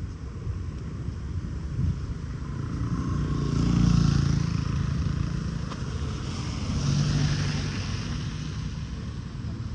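Two vehicles passing by, one about four seconds in and one about seven seconds in, each swelling and fading, over a steady low rumble.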